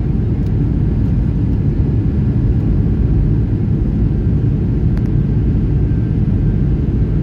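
Boeing 757-300 jet airliner's Rolls-Royce RB211 turbofan engines running with a loud, steady, deep rumble.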